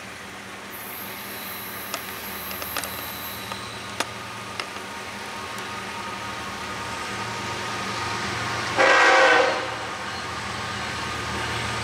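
Approaching diesel freight train, led by a GE ES44C4 locomotive: a low engine rumble growing steadily louder, with one short locomotive horn blast about nine seconds in. A few sharp clicks come in the first five seconds.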